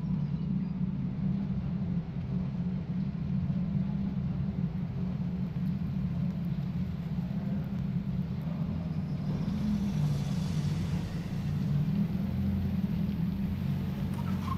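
Steady low rumble of a car engine running at low revs, heard from inside the cabin.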